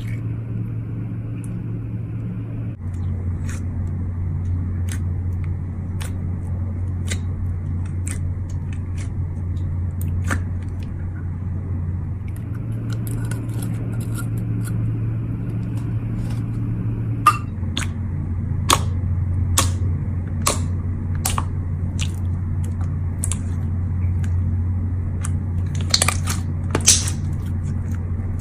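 Slime being handled, with scattered small crackles and pops that grow more frequent toward the end, over a steady low hum.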